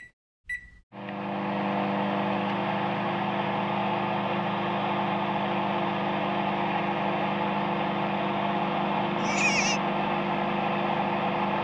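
Microwave oven keypad beep once, then the oven starts and runs with a steady hum. About nine seconds in, a brief high warbling squeak.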